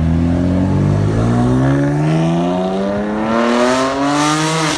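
BMW M4 coupe's engine under hard acceleration, its pitch rising steadily as the car pulls away, with a short crackle near the end before the sound cuts off suddenly.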